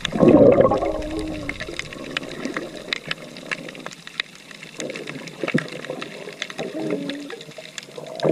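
Seawater splashing and sloshing, with many small crackling clicks throughout; a loud surge of splashing at the start and another near the end.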